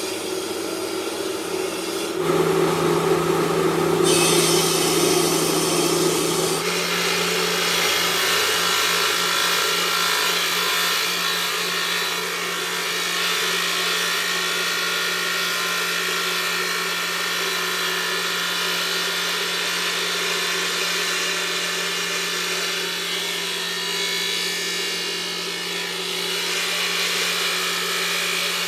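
Marble-working machinery running: a steady motor hum under a loud grinding, abrasive noise of stone being worked. The sound changes abruptly about two seconds in and again about six seconds in.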